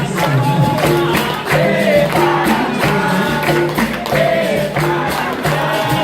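Capoeira roda music: a group singing in chorus over a steady rhythm of pandeiro and berimbau.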